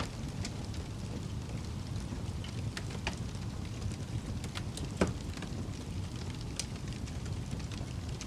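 Wood fire burning in a fireplace: a steady low rumble of flames with scattered crackles and pops, one sharp pop about five seconds in.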